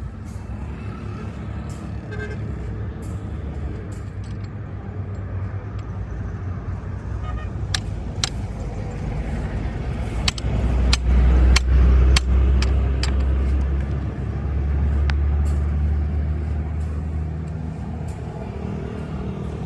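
Heavy motor vehicle engine running with a low steady rumble that grows much louder for a few seconds past the middle, as with a vehicle passing close or an engine pulling harder. A scatter of sharp metallic clicks or taps sounds over it, most of them in the middle stretch.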